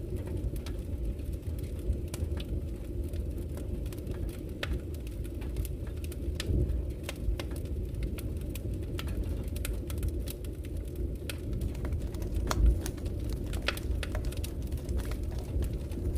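Wood fire burning in a fireplace: a steady low rumble of flames with frequent irregular crackles and pops of the burning wood, a couple of louder pops standing out.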